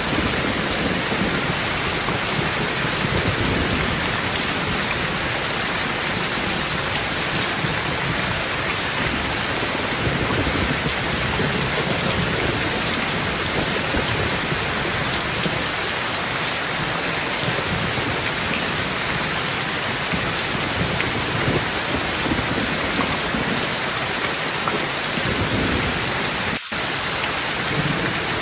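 Steady heavy rain, an even hiss at a constant level, with low thunder rumbling at times. A split-second dropout comes near the end.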